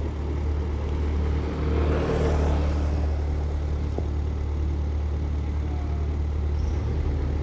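Vehicle engine running steadily with a low hum, and a swell of passing-vehicle noise about two seconds in.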